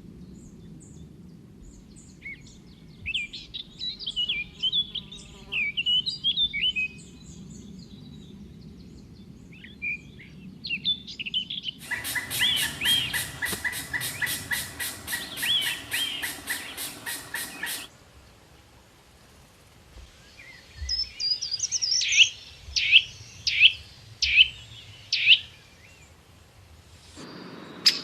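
Birds chirping and calling in a series of short spliced clips: scattered high chirps and warbles, then a fast even pulsing trill under other calls, then a run of about six loud, sharp, falling calls.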